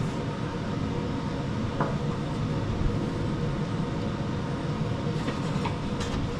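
A steady mechanical hum and rumble, with a few light clicks as the drive belt and mower parts are handled.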